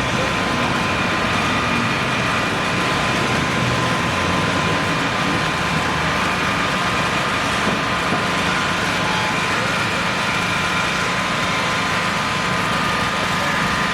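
An engine idling steadily, a low rumble with a constant high whine over it.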